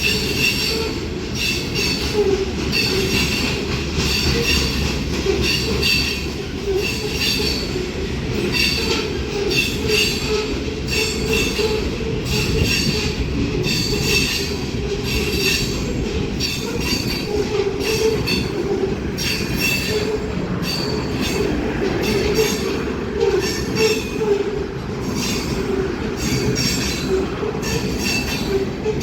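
Freight train cars rolling past: a steady low rumble, with metal wheel squeal and wheel clicks repeating about once a second.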